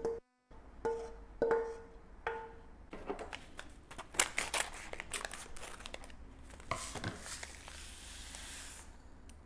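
Three short ringing notes, then crinkling and tearing of wrapping with sharp crackles, ending in a long rustle.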